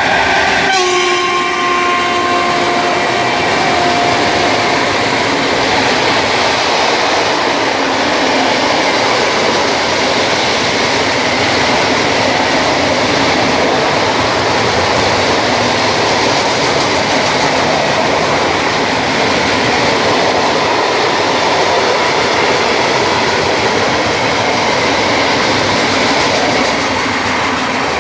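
A PKP class ET22 electric freight locomotive passes with a horn blast lasting a few seconds just after the start. A long train of tank wagons then rolls by with steady wheel noise and clickety-clack over the rail joints, easing slightly near the end.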